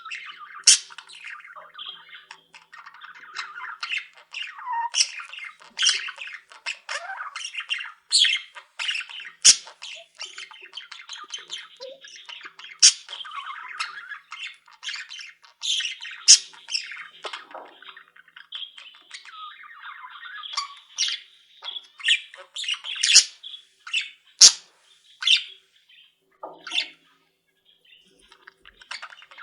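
Flock of pet budgerigars chattering steadily, with many sharp squawks and chirps over it. The birds fall quiet for about two seconds near the end.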